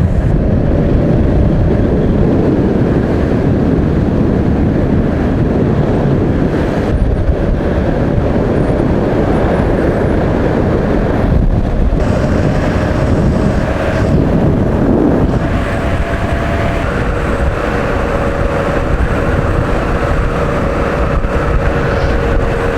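Adventure motorcycle being ridden on a dirt road: steady engine and road noise.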